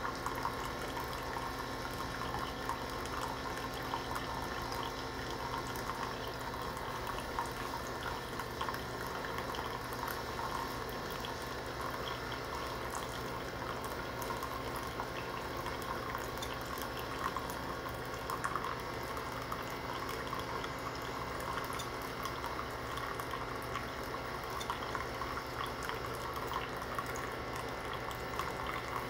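Keurig K-Mini single-serve coffee maker dispensing freshly brewed coffee into a mug: a steady stream of liquid pouring and dripping, with a steady low hum from the machine underneath.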